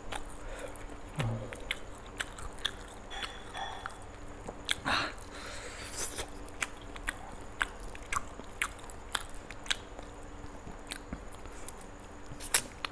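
A man chewing and biting roast chicken close to the microphone: a run of short, sharp wet mouth clicks and smacks, with a longer, louder crunch about five seconds in.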